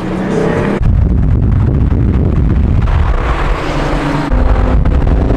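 Cars running hard at speed: steady engine drone under heavy, gusting low rumble of wind buffeting the microphone, which surges sharply about a second in and again near the end.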